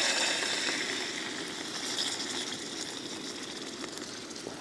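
New York strip steak sizzling in hot olive oil in a pan, just laid in to sear. The sizzle starts loud and slowly dies down.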